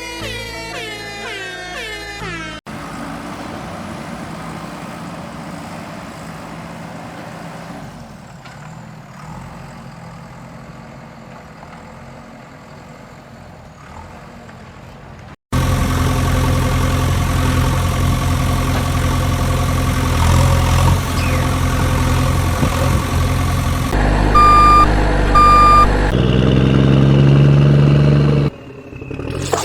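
Cartoon vehicle sound effects: a steady hiss for about twelve seconds, then a loud, steady engine running, with two short horn honks close together near the end. Swooping sliding tones open the sequence.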